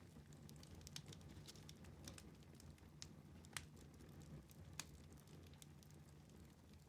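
Wood fire burning in a fireplace, quietly crackling: scattered small snaps and two sharper pops over a low, soft rumble of the flames.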